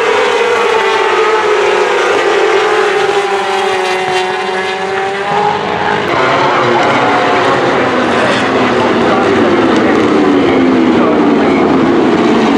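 Racing superbike engines running hard, their note sliding slowly down. The note breaks off about halfway through, and a new engine note falls steadily near the end.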